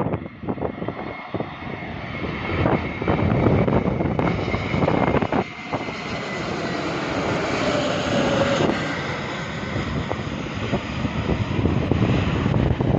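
Jet airliner engines sounding as the aircraft comes in to land, a broad steady noise with a faint high whine, with wind buffeting the microphone.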